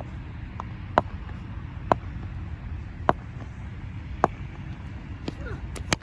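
A series of sharp knocks, about one a second, with two in quick succession near the end, over a steady low outdoor rumble.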